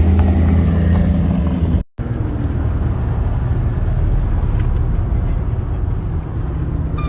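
Car engine running with a steady low hum. It breaks off abruptly about two seconds in, and a steady low rumble follows.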